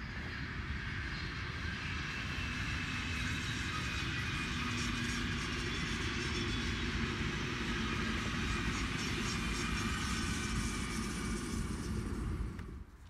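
Double-deck SBB electric passenger train passing along the line: a steady rumble of wheels on rail with a faint whine over it. It cuts off abruptly near the end.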